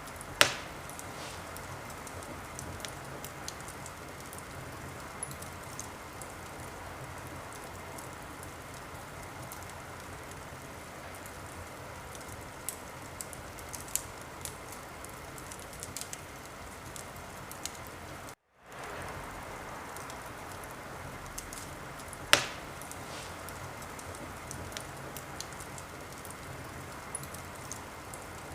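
Wood fire crackling steadily, with many small snaps over a soft hiss and two loud pops, one right at the start and one about 22 seconds in. The sound drops out completely for a moment about two-thirds of the way through.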